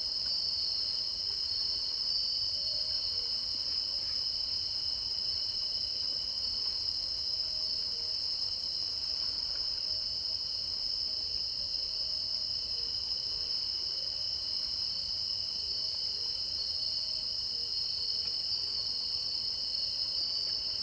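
Chorus of insects trilling without a break, a steady high-pitched ringing that holds level throughout.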